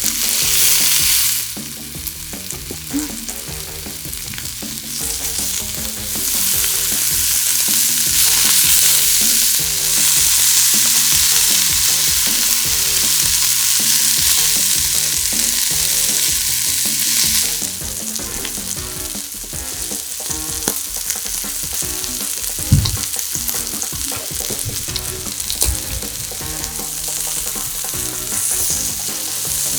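Slices of Korean Hanwoo beef sizzling on a hot grill, a steady frying hiss that swells louder for a stretch in the middle and then eases. Scattered light clicks and one low thump come late on.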